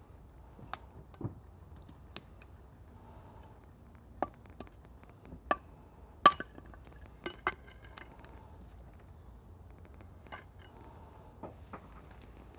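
Campfire crackling: irregular sharp pops and snaps from burning wood, the loudest about six seconds in.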